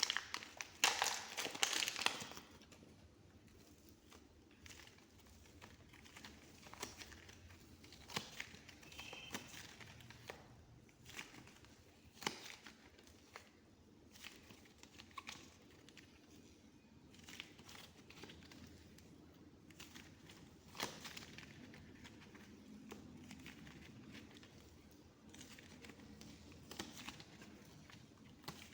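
Soft modelling clay being handled and squished, giving sticky crackles and soft clicks. The crackling is loudest for the first couple of seconds, then quieter and sparser.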